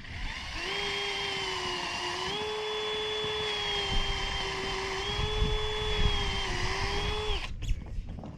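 Power drill running with a steady whine for about seven seconds, its pitch stepping slightly up and down as it pre-drills holes through metal roofing panels. Wind rumbles on the microphone underneath.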